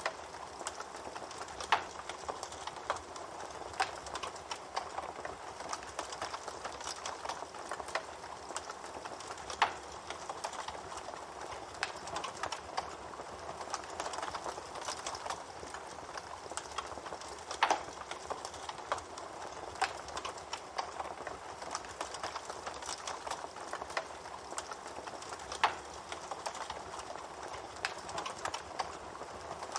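Wood fire burning: a steady hiss with constant small crackles and pops, and a few louder snaps spread through.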